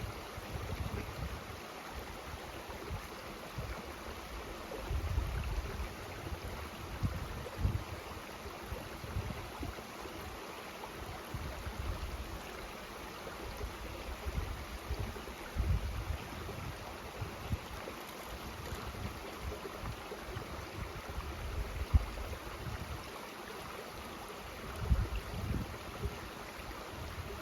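Mountain stream rushing steadily, with wind buffeting the microphone in low gusts now and then. A single brief knock stands out about four-fifths of the way through.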